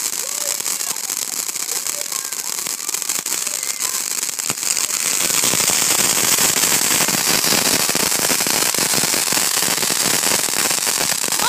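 Fireworks crackling in a rapid, continuous stream of small pops, growing louder and denser about five seconds in.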